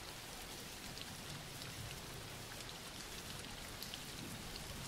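Steady, soft rain background: an even hiss of rainfall with faint scattered drop ticks.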